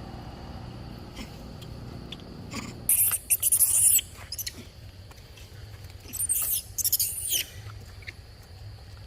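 A monkey's high-pitched squeals in two bursts, one about three seconds in and another about six seconds in, each lasting about a second, over a low steady background.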